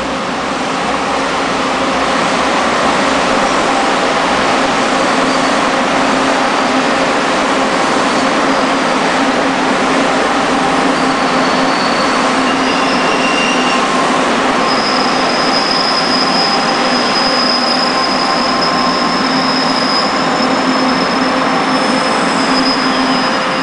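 Electric multiple-unit local train moving along the track at a station: a steady rumble of wheels on rail with a motor hum, swelling over the first couple of seconds. A thin, high wheel squeal comes in about halfway through.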